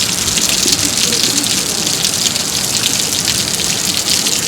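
Heavy rain falling, a loud steady hiss dotted with many sharp ticks of close drops hitting.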